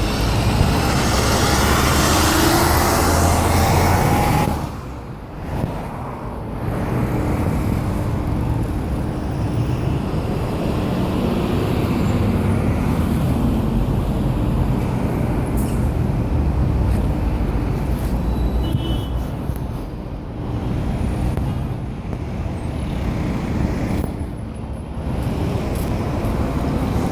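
City bus diesel engine running among road traffic at a junction. A loud, noisy rush fills the first four seconds, then it settles into a steady engine drone with a low hum.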